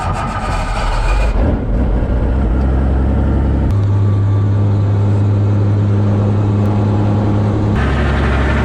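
Robinson R44 helicopter running: a steady, loud, low engine-and-rotor drone whose tone shifts abruptly twice, about four seconds in and near the end.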